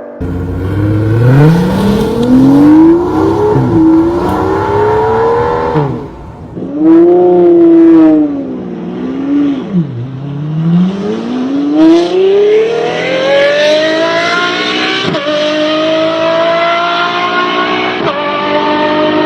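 V12 hypercar engine accelerating hard, several runs in a row. The pitch climbs steadily, dips sharply at each upshift, and the runs break off abruptly between clips.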